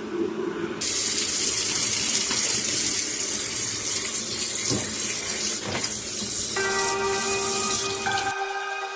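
Water running steadily from a kitchen tap into a sink or pot. About two-thirds of the way through, a few steady bell-like tones come in over it and carry on after the water stops.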